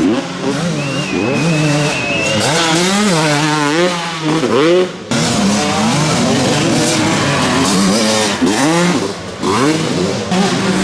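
Several motocross bikes with engines revving up and down, overlapping as they accelerate and shift. There is a sudden break in the sound about five seconds in.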